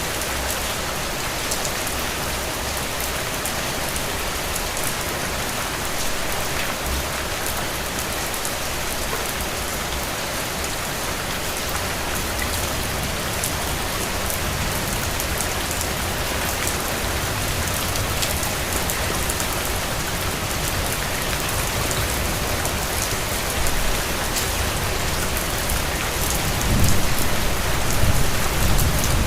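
Steady rain falling and pattering on surfaces, even and unbroken. A low rumble swells up in the last few seconds.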